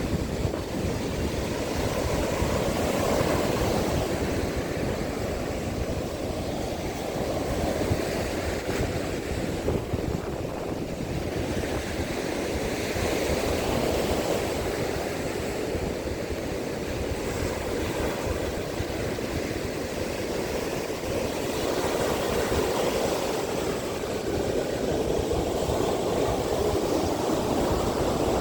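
Rough sea surf breaking and washing up a sand beach in strong wind: a steady rushing noise that swells and eases every several seconds, with wind buffeting the microphone.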